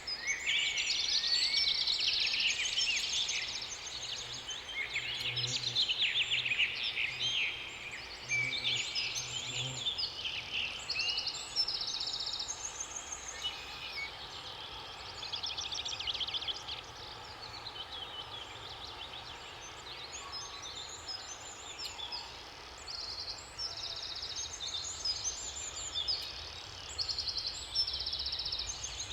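Several songbirds singing and chirping at once, in overlapping trills and quick whistled phrases, over a steady hiss of water.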